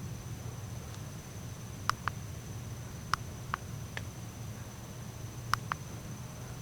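A steady, thin, high insect drone over a low background hum, broken by a few sharp clicks that come in pairs about two, three and a half, and five and a half seconds in.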